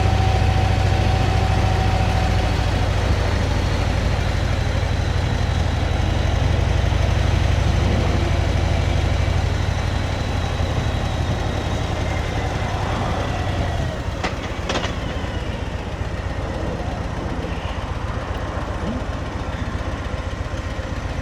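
Motorcycle engine running with steady road and wind noise, a strong low hum that eases a little about halfway through. Two sharp clicks come about fourteen seconds in.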